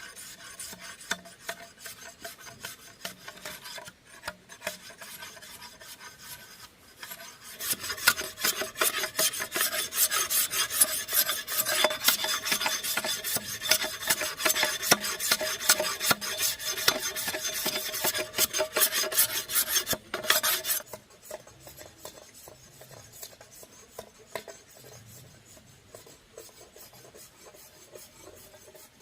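Rapid rasping, scraping strokes worked over bamboo. The strokes turn louder and denser about a quarter of the way in, and drop back to a lighter pace about two-thirds through.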